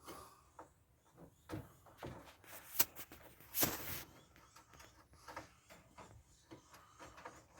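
Handling noises from working at a trailer wall panel: scattered light clicks and knocks, a sharp click a little before the middle, and a short scrape just after it.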